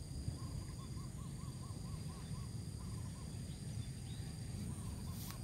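A bird calls a quick run of about ten short hooting notes, about four a second, then a few fainter ones near the end, over a steady high insect drone.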